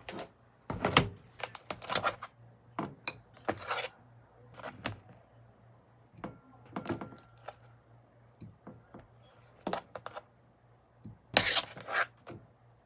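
Small household objects being handled and set down: a dozen or more irregular clicks, knocks and clinks, over a faint steady low hum.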